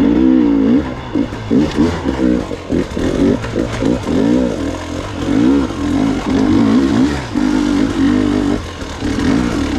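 Gas Gas EX 300 two-stroke enduro motorcycle engine under a working throttle while riding, its pitch rising and falling again and again, with a steadier stretch about two thirds of the way through.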